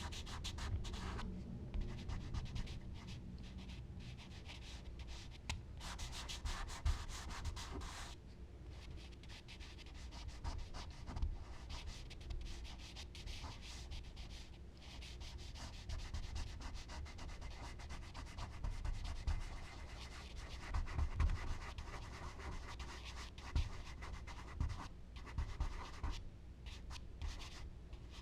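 Charcoal and blending tools rubbing and scratching across smooth Bristol paper in many quick, repeated strokes.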